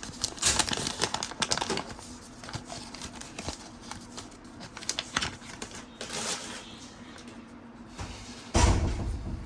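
Trading cards being flipped and shuffled by hand: quick light clicks and slaps of card stock, thinning out to softer rustling. A dull bump comes about a second before the end.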